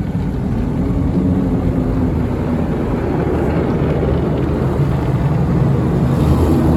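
Tunnel car wash machinery spraying and working over the car during the foam stage, heard from inside the cabin as a steady low rumble with a faint motor hum.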